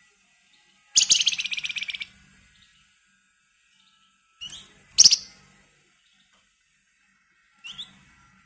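Javan fulvetta (flamboyan) calling: a fast, dense, rattling trill lasting about a second, starting about a second in, then a short rising note and a sharp burst about four to five seconds in, and short notes again near the end.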